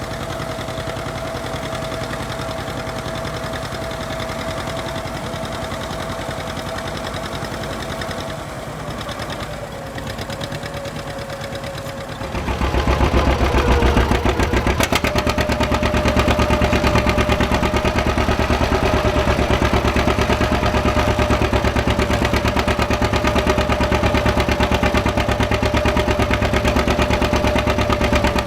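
John Deere two-cylinder tractor engine running with rapid, even exhaust beats. About twelve seconds in it gets much louder and stays loud.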